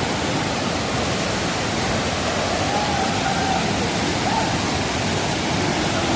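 Waterfall pouring into a bathing pool: a steady rush of falling water.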